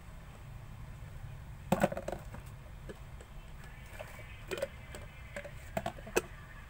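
Slime being handled, giving a few short sharp clicks and pops, the loudest pair about two seconds in and more scattered near the end.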